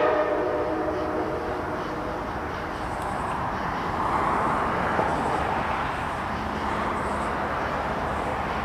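A locomotive's Nathan K5LA five-chime air horn ends a blast about a second in. After that comes the steady rumble of the approaching CSX ET44AH diesel locomotive and its train, swelling around the middle.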